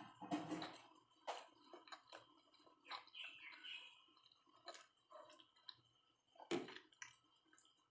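Faint mouth-closed chewing with small irregular clicks and taps of fingers and food against a plate, and one sharper knock about six and a half seconds in.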